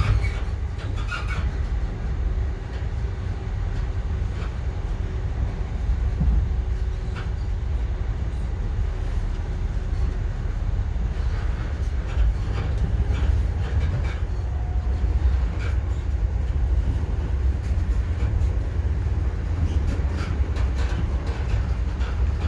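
Passenger train running, heard from on board: a steady low rumble with scattered clicks and rattles.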